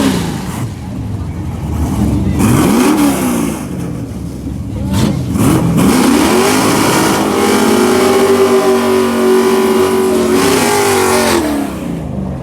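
Drag car engine revved in three quick blips, then held at high revs for about five seconds before the revs drop away near the end.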